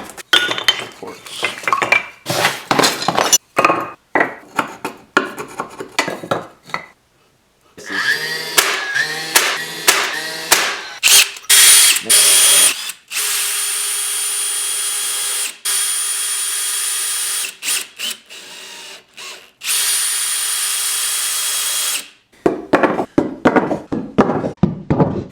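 Power drill working wood, running in short bursts amid clatter and then in several steady runs of a few seconds each, with a constant whine and brief stops between them.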